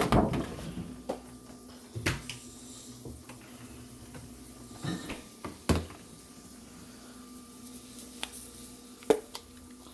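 Kitchen items being handled and set down: about five separate knocks and clinks, over a faint steady hum.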